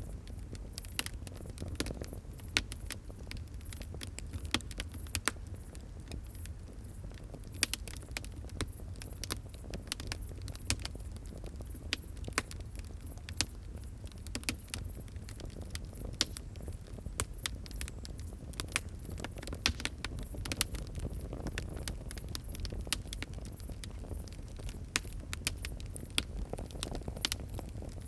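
Fire crackling: frequent irregular sharp pops and snaps over a low steady rumble.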